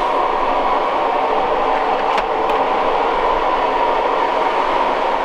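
Electric water pump running steadily after being primed, pumping water with the sound that its owner judges about right.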